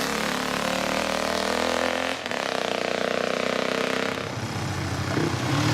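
Old pre-1980 motorcycle engines running, more than one at a time. The sound changes abruptly about two seconds in, and one engine's pitch falls away in the middle.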